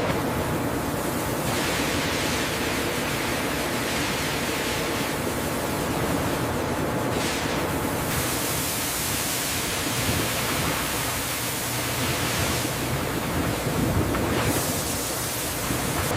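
Steady rushing noise of food-processing machinery with a low hum underneath; the hiss grows and fades every few seconds.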